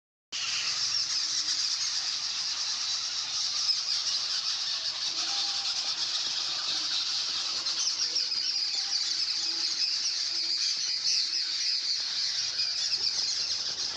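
A flock of birds chattering and chirping all together, a dense high-pitched din that never pauses.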